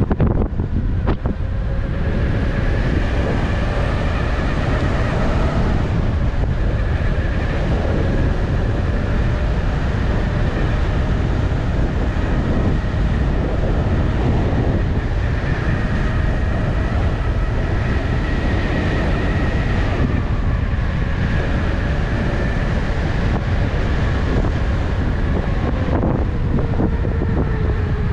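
Wind rushing over the microphone while riding an electric unicycle at speed, a steady heavy rumble. Under it is a faint whine that drifts slightly in pitch.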